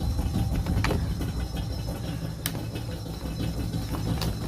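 Refrigerator running with a loud, low hum and a few sharp clicks.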